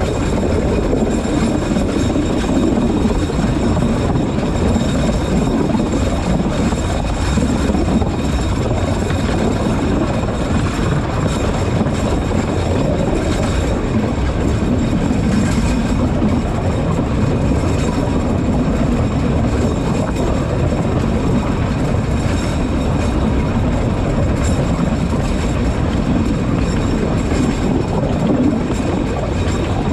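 Alishan Forest Railway narrow-gauge train running steadily along the track: a continuous low running noise of wheels on rails, heard from the front window.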